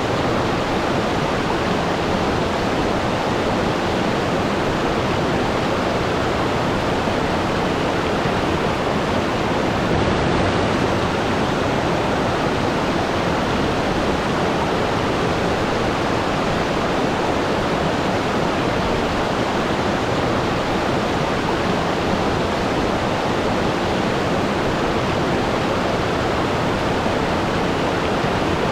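Waterfall: a steady, even rush of falling water with no letup.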